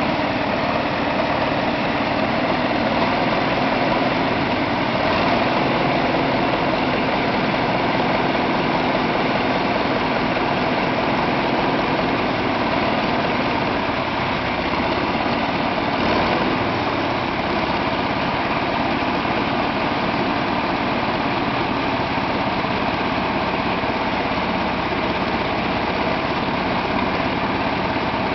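17-litre diesel radial aircraft engine running steadily with no propeller fitted.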